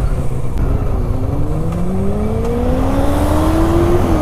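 Benelli 600i inline-four motorcycle engine accelerating, its pitch rising steadily for about three seconds, then dropping near the end as it shifts up, over a steady low rumble of wind and road.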